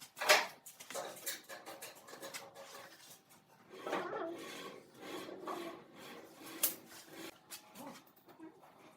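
Hand work on wood: irregular scraping and rubbing strokes with scattered sharp knocks, the loudest knock just after the start.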